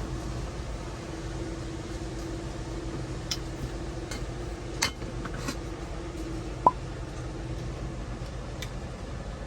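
A few light clicks and clinks of parts or tools being handled, over a steady low hum.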